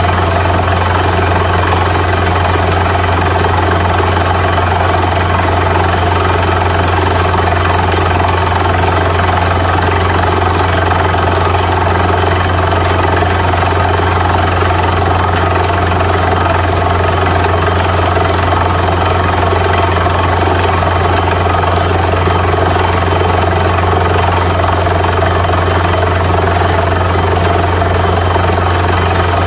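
Borewell drilling rig running steadily: a loud, even machine drone with a strong low hum that does not change.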